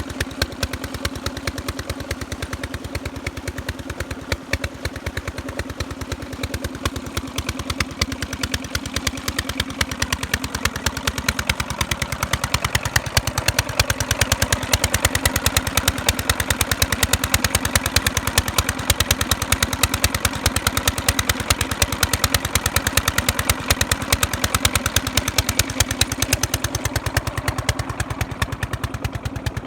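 Petter diesel engine running steadily while driving a tubewell water pump, with a fast, even knock from its firing strokes. It gets a little louder about halfway through.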